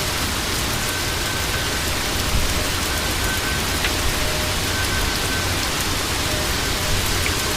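Heavy rain and strong straight-line wind gusts of a severe thunderstorm: a steady hiss of rain with a low rumble of wind.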